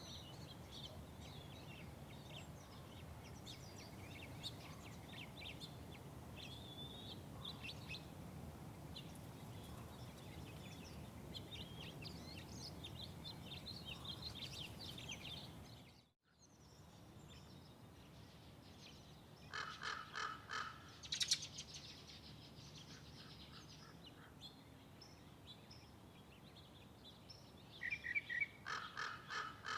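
Small birds chirping continuously over a low, steady background hum. The sound cuts out abruptly about halfway through. After that come louder bursts of rapid, harsh repeated calls, about four seconds after the cut and again near the end.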